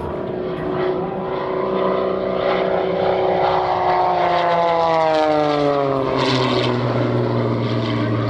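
The piston engine and propeller of an MXS-RH aerobatic monoplane running hard during a freestyle aerobatic display. Its pitch falls steadily over a few seconds mid-way, then holds lower.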